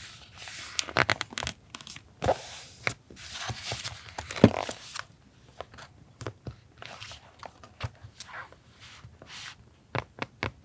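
Paper and sticker handling during collage journaling: rustling and tearing of paper in bursts over the first five seconds, with a sharp knock about four and a half seconds in, then lighter taps and clicks.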